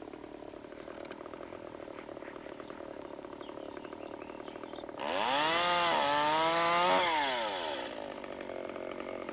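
Small two-stroke engine, most likely a chainsaw, running with a fast steady pulse, then revved hard about halfway through: its pitch climbs, wavers up and down, and falls back to idle over about three seconds.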